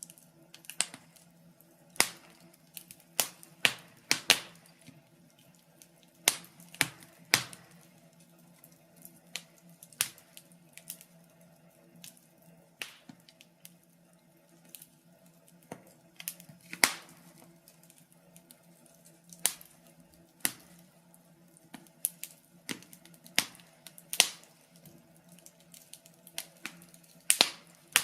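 Wood fire crackling in a fireplace: irregular sharp pops and snaps, some loud and some faint, over a faint low hum.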